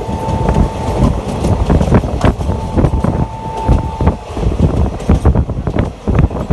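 Passenger train running at speed heard from on board: a dense rumble of wheels on the rails with irregular clatter and knocks, and wind buffeting the microphone. Two held high tones sound over it, the first about a second long near the start, the second about a second and a half long around three seconds in.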